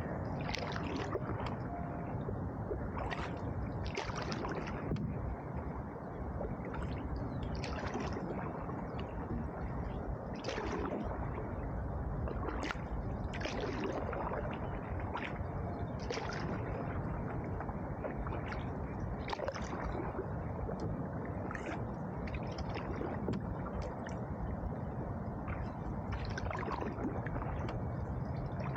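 Canoe being paddled on a river: water gurgles and sloshes against the hull, with a paddle splash every second or two.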